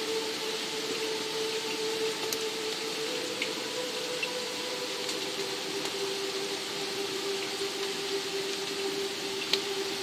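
Steady rain with a few scattered louder drops, over a soft held music drone that steps down to a lower note about halfway through.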